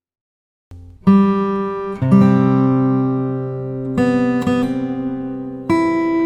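Acoustic guitar music: after a short silence, strummed chords begin about a second in, a new chord every second or two, each left to ring out.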